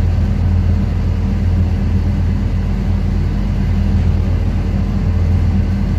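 Steady low hum of running ship's machinery, an even drone with no change in pitch or level.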